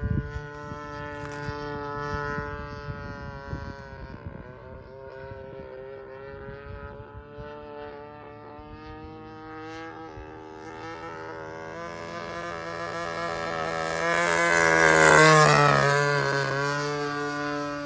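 A 20cc gasoline engine of a radio-controlled P-51 model running in flight, its pitch wavering up and down as the throttle changes. About 15 s in it makes a low pass, growing loud and then dropping in pitch as it goes by.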